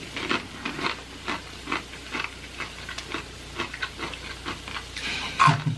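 Close-up chewing and crunching of Takis rolled tortilla chips coated in melted cheese, irregular wet crunches a few times a second. A brief voiced sound near the end.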